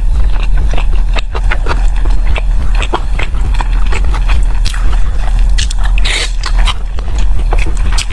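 Close-miked chewing of sticky glutinous-rice zongzi: wet mouth clicks and smacks, with a few brief hissy bursts, over a steady low hum.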